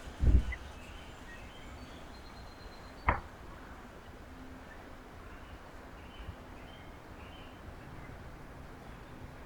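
Faint bird chirps over steady outdoor background noise, with a heavy low thump just after the start and a sharper knock about three seconds in.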